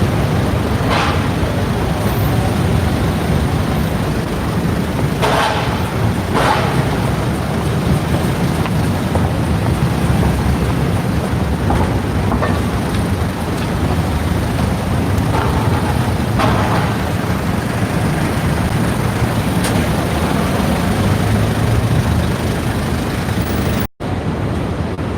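City street traffic with a steady low rumble and a few short, sharp hiss-like sounds from passing vehicles. The audio cuts out for an instant near the end.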